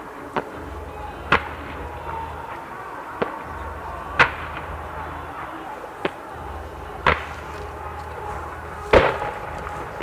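Firework shells bursting: about seven sharp booms, one to two seconds apart, the loudest near the end.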